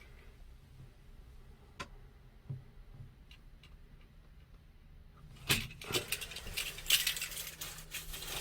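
A few faint isolated clicks, then from about five seconds in a dense, irregular run of clicking and rattling, like small hard objects being handled.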